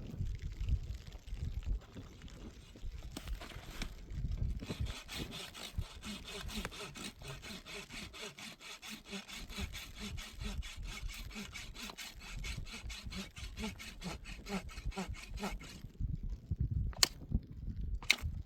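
Hand saw cutting through wood in steady back-and-forth strokes, a few strokes a second, which stop about three seconds before the end. Two sharp knocks follow near the end.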